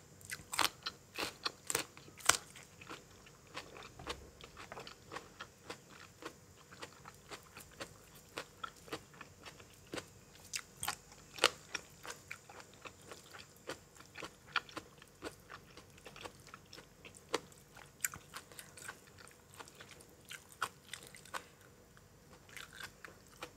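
A person biting into and chewing crunchy food, with irregular sharp crunches, several a second at times.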